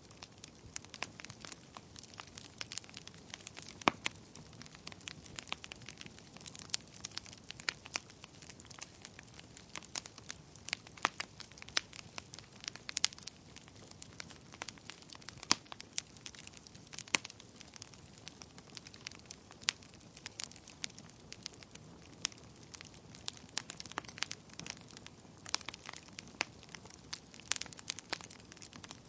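Wood fire crackling: irregular sharp pops and snaps over a soft steady hiss of burning.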